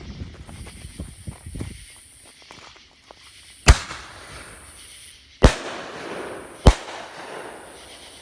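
Double-break consumer aerial shell from an Orion Asian Full Boat reloadable mortar kit bursting overhead: three sharp bangs over about three seconds, each of the last two trailing off in a fading hiss.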